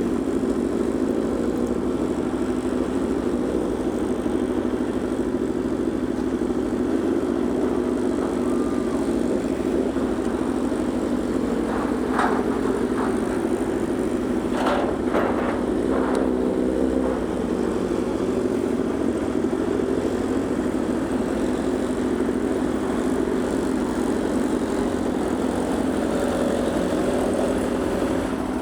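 Ferry's engines running with a steady, unchanging drone. A few short higher sounds come about halfway through.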